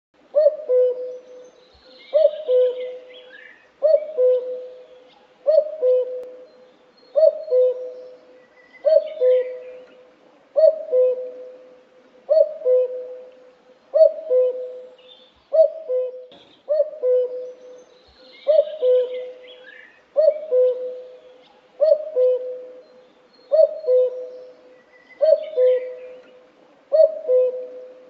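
A bird repeating a low, hooting two-note call, a higher note then a lower held note, about every second and a half. Faint higher chirps of other birds come and go behind it.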